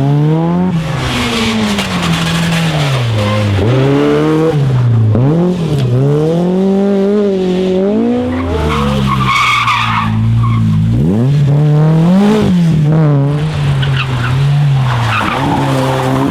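Rally car engine at high revs, its pitch repeatedly climbing and dropping with gear changes and throttle lifts through corners, with tyres skidding, most strongly about nine to ten seconds in.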